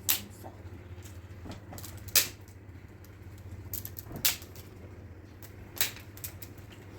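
Sharp knocks, four loud ones about two seconds apart with fainter taps between, over a steady low hum.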